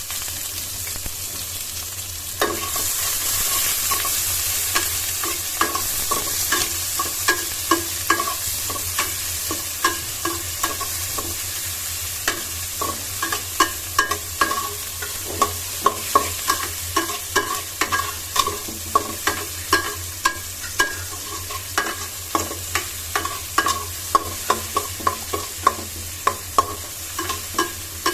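Onion sizzling as it fries in hot oil in a pan, stirred with a metal utensil that scrapes and clinks against the pan again and again. The sizzle grows louder about two and a half seconds in.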